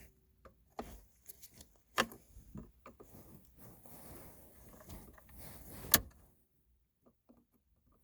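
Sharp clicks and small knocks of plastic shifter-assembly parts and a locking tab being worked by hand, with light handling noise between. The loudest click comes about six seconds in, then it falls almost silent.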